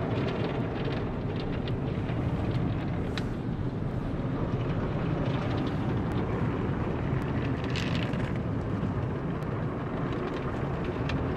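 Automatic tunnel car wash equipment running, heard from inside the car: a steady rushing noise that holds at an even level.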